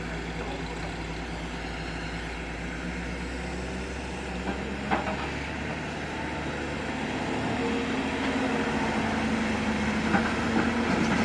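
Diesel engines of heavy machinery running steadily, growing louder in the second half, with a sharp clank about five seconds in and another near the end.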